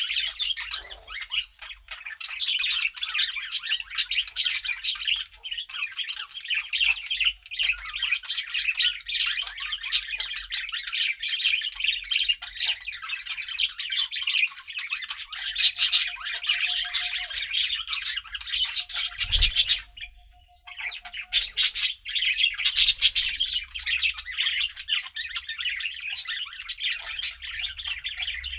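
A group of budgerigars (budgies) chattering and chirping continuously in a dense, high-pitched warble, with a brief lull a little over two-thirds of the way through.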